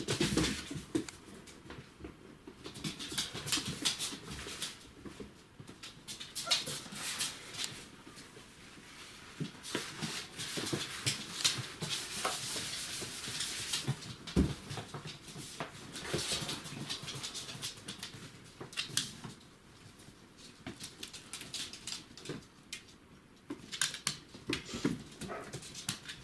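Litter of five-week-old border collie puppies whimpering and squeaking, with many small clicks and scuffles as they move and play.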